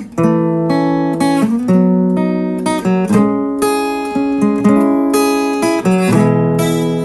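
Background music of strummed acoustic guitar, with clearly picked notes and chords.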